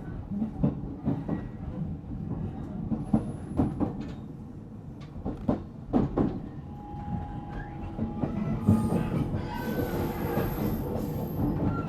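On-board running noise of a JR Central 313 series 0-subseries electric train, heard inside motor car MoHa 313-7: a steady rumble of wheels on rail with irregular clicks as the wheels cross rail joints. A steady tone sounds about seven seconds in, and thin high whines come near the end.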